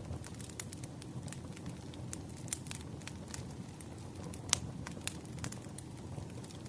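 Campfire burning: a steady low rumble of flames with irregular sharp crackles and pops of the wood, one louder pop about halfway through.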